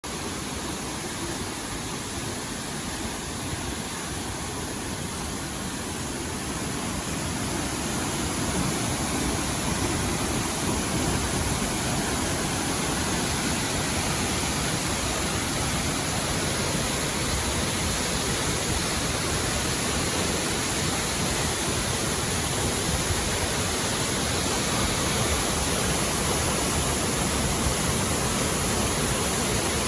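Waterfall: falling water making a steady, even rush of noise, growing somewhat louder about eight seconds in.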